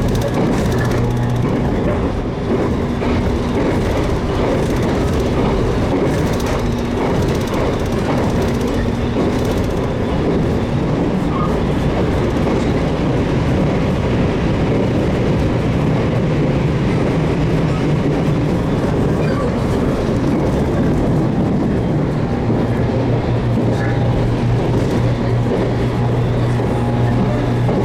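Running noise of a JR Kyushu 813 series electric train heard from inside the car: a steady rumble of wheels on rail with some clickety-clack. A low steady hum sounds at the start and again from about 22 seconds in.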